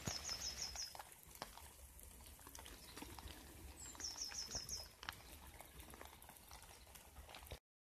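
Light rain dripping and pattering in scattered drops. A small bird calls twice, about four seconds apart, each time a short high trill of about five quick notes.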